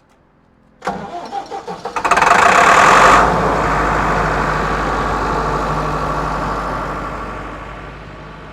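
A diesel engine starting: it cranks with a pulsing sound for about a second, catches with a burst of revs, then settles into a steady idle that slowly fades.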